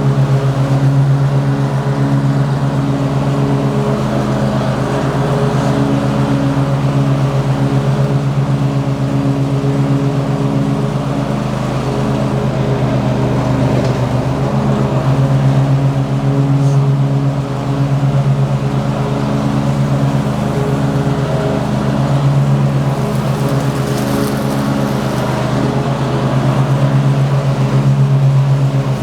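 Lawn mower engine running steadily at one pitch while mowing grass, loud and close.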